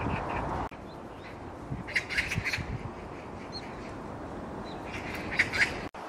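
A bird giving clusters of short, harsh call notes, once about two seconds in and again near the end. The steady background noise drops abruptly less than a second in.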